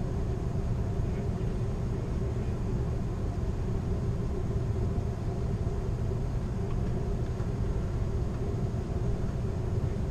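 Steady low rumble of a moving Amtrak Superliner passenger train heard from inside the rear car: the running noise of the car rolling along the track.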